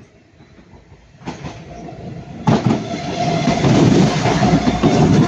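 Northern Class 195 diesel multiple unit passing close by. It grows louder from about a second in and becomes loud about two and a half seconds in, a steady whine over the rumble of wheels on track.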